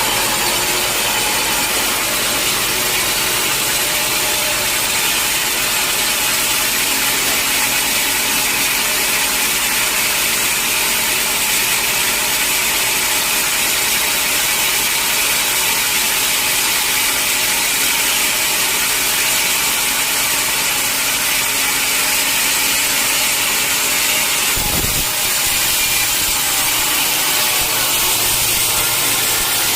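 Sawmill saw running steadily and cutting through a mahogany log, a loud, even hiss of blade in wood. About 25 seconds in there is a dull thump, and the tone of the cut shifts slightly after it.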